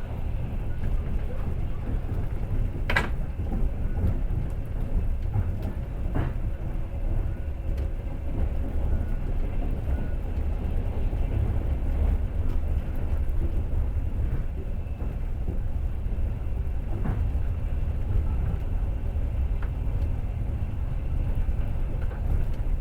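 Passenger train running along the track, heard from inside the carriage: a steady low rumble of the wheels on the rails, with a few sharp knocks, about three, six and seventeen seconds in.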